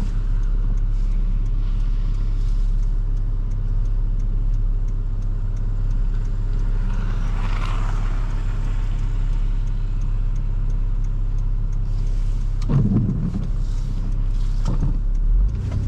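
2005 Toyota Highlander driving on a snowy road: a steady low drone of engine and tyres, with a swell of hissing noise about halfway through.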